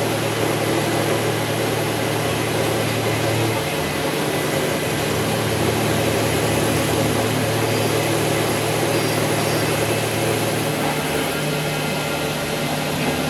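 A metalworking machine tool running steadily, a low motor hum under an even noise; the hum's pitch shifts slightly about three and a half seconds in and again near eleven seconds.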